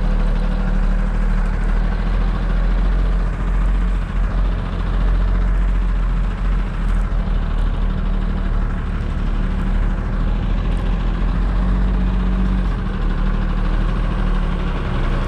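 Heavy truck diesel engine running steadily, a low, even engine note.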